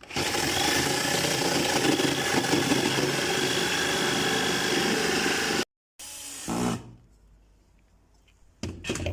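Electric drill boring the bird's entrance hole through a wooden birdhouse panel, running steadily for about five and a half seconds and then cutting off abruptly. A couple of short knocks follow near the end.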